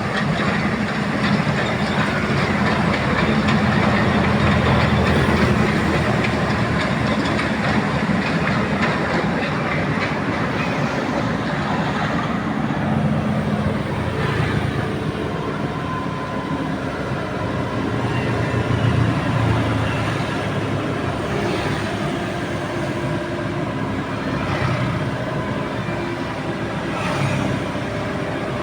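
Amphibious excavator's diesel engine running steadily with a dense, rapid mechanical clatter; its pitch changes about halfway through.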